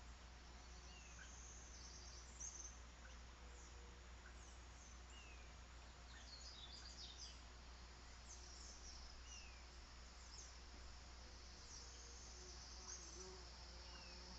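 Faint wild birds chirping: many short high calls and a few down-slurred whistles, over a steady high insect trill that grows stronger near the end. A low steady hum lies underneath.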